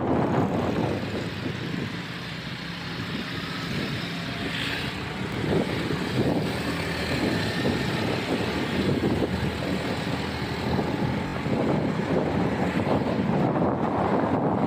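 Motorbike running on the move, with wind noise on the microphone; it dips for a couple of seconds after the start, then picks up again.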